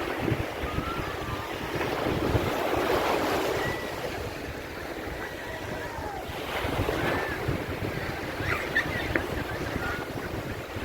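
Sea waves breaking and washing up a beach, the surf swelling twice: about two seconds in and again near the middle. Wind buffets the microphone throughout.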